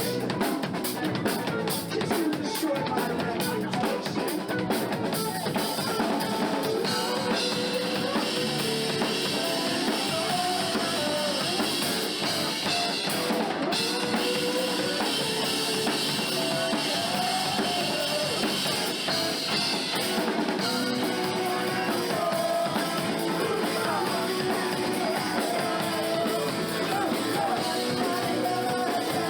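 Live rock band playing an instrumental passage: a drum kit with kick drum and rimshots driving under electric guitar. The drumming is busy for the first few seconds, and about seven seconds in the sound grows brighter and fuller.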